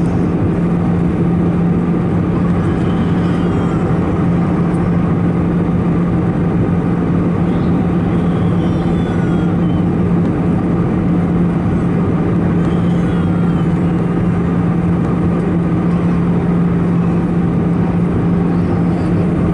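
Steady cabin noise of an Airbus A319-111 airliner in flight on the descent toward landing: the broad roar of airflow and its CFM56 turbofan engines, with a steady low hum running under it.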